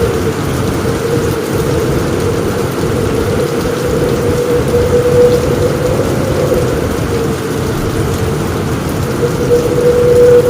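Heavy rain falling steadily on a roof, a dense continuous patter with a deep rumble underneath.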